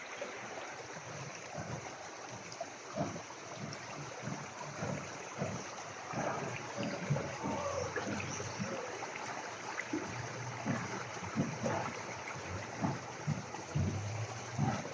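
Creek water running over rocks, a steady rush broken by many small irregular splashes.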